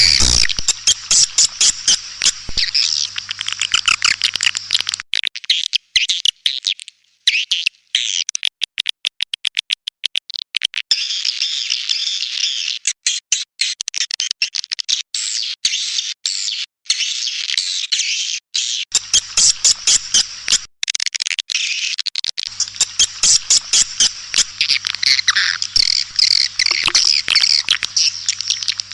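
Recorded edible-nest swiftlet colony calls: dense, fast, high-pitched twittering and chattering. A stretch of rapid clicking runs through the middle. This is a swiftlet call (lure) recording of the kind played to draw swiftlets to a nesting house; a faint low hum sits under parts of it.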